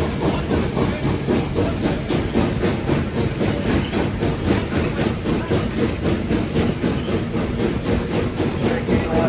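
Nevada Northern No. 81, a 2-8-0 steam locomotive, heard from inside its cab while running: a steady, rhythmic exhaust chuff several times a second over a constant hiss of steam and the rumble of the running gear.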